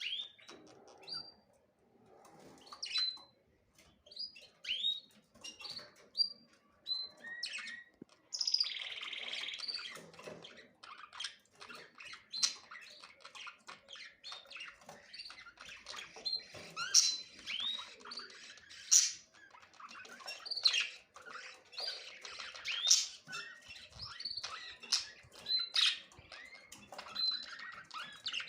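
Small birds chirping: single short rising chirps about half a second to a second apart, then, about a third of the way in, many birds chirping at once in a thick overlapping chorus.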